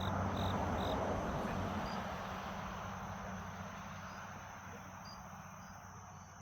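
Crickets chirping, with a steady high insect drone, over a broad rushing noise and low hum that slowly fade away.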